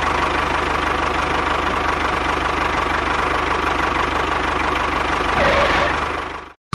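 Small engine of a DIY mini tractor running steadily with a fast, even knocking beat. It swells slightly about five and a half seconds in, then cuts off abruptly.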